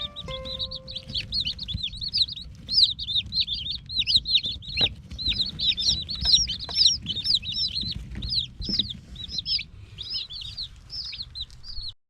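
A brood of Silkie chicks peeping together, a dense, unbroken chorus of short high chirps.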